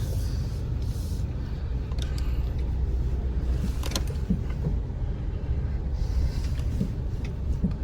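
Chevy Colorado ZR2 pickup crawling slowly over a rough off-road trail in low range: a steady low engine and drivetrain rumble, with a few sharp knocks as the truck jolts over the rough ground.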